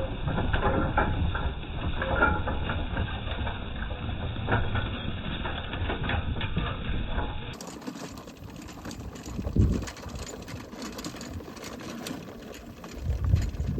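A farm machine's engine running with a steady low rumble and frequent rattling clicks. Partway through it gives way to a quieter stretch of wind on the microphone, with one brief louder swell.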